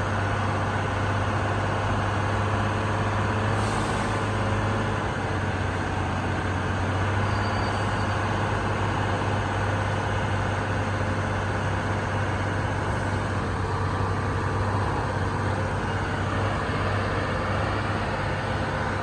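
Heavy truck's diesel engine running loud and steady at constant revs, labouring under load on a steep uphill climb.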